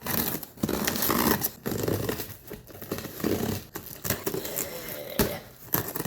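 Cardboard shipping box being cut and torn open, packing tape and cardboard scraping, tearing and crinkling in uneven strokes, with a sharp click about five seconds in.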